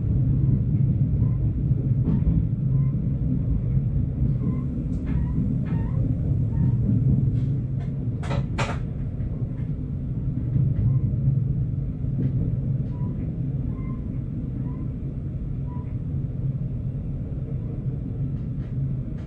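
Stadler GTW diesel multiple unit running at low speed, heard from the cab: a steady low engine drone with faint clicks from the wheels on the track, and two short sharp noises close together about eight seconds in.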